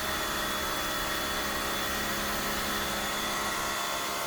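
240-volt Makita electric pressure washer running with the trigger held: a steady motor-and-pump hum with a hiss over it.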